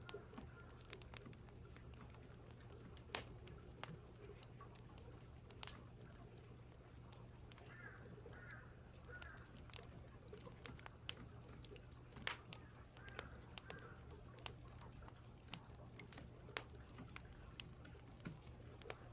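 Faint, scattered sharp clicks of keyboard typing and crackling firewood over a low steady hum. A bird chirps faintly three times about eight seconds in, and once more near thirteen seconds.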